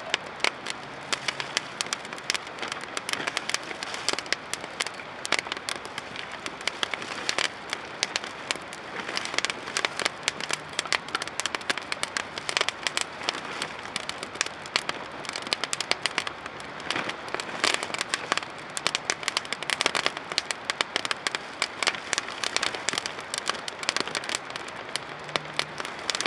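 Wood campfire of home-dried driftwood crackling steadily, with many sharp, irregular snaps and pops over a soft hiss of burning.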